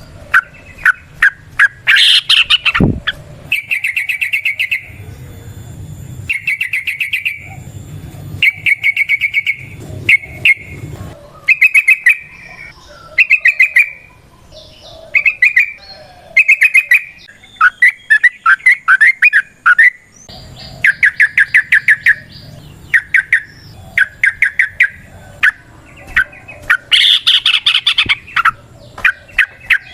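Yellow-vented bulbul (trucukan) singing a long, lively song of short, rapid bubbling phrases, one after another with brief gaps between them. This is the rolling 'ropel' song that keepers play to lure other trucukan or set them singing.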